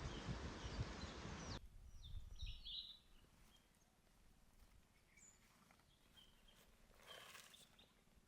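A steady rushing noise that cuts off abruptly about a second and a half in, then faint bird chirps, a few short calls, the clearest just after the cut.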